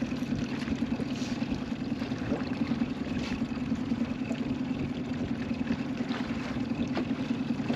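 A boat motor running steadily at trolling speed, an even, unbroken hum.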